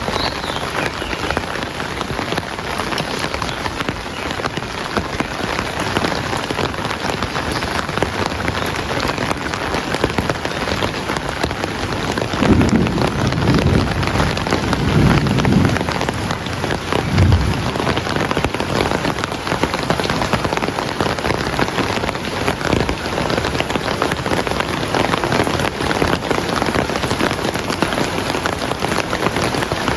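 Heavy rain falling steadily. About halfway through, a low rumble of distant thunder swells and fades over roughly five seconds.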